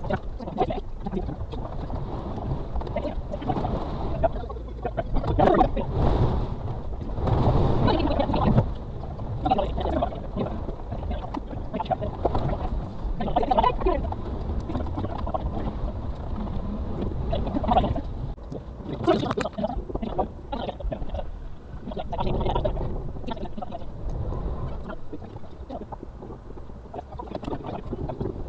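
Suzuki Carry kei truck's 660cc three-cylinder engine pulling over a rough off-road track, heard inside the cab, revs rising and falling, with irregular knocks and rattles from the truck jolting over bumps.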